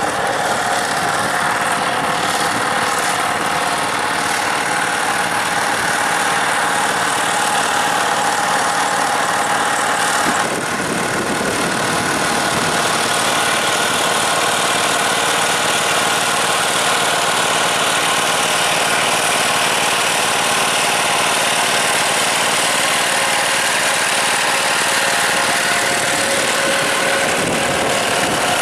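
Tractor diesel engine running steadily, its sound changing abruptly about ten seconds in.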